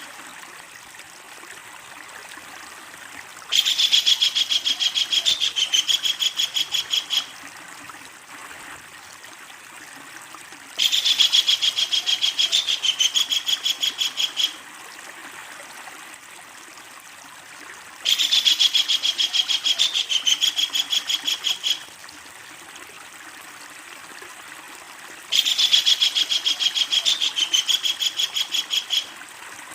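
Kingfisher giving its long, loud chattering call: four bouts of rapid repeated notes, each about three and a half seconds, coming about every seven seconds over a steady background hiss.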